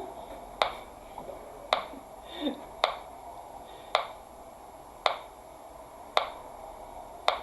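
Metronome clicking steadily, about one click a second, marking the dotted-quarter-note beat for the scale exercise.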